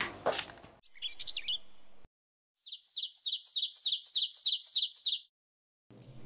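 Songbird chirping: a short twitter about a second in, then a quick run of repeated high chirps, about seven a second, for some two and a half seconds, starting and stopping abruptly.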